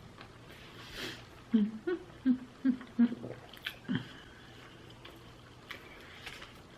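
A person eating sushi close to the microphone: chewing and mouth sounds, with a run of short, low hums or grunts in the middle.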